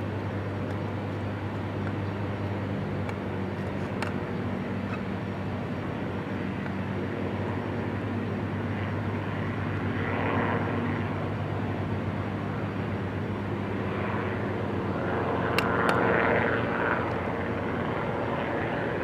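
Twin-engine Cessna's piston engines and propellers droning steadily on takeoff, with the noise swelling about ten seconds in and again around sixteen seconds.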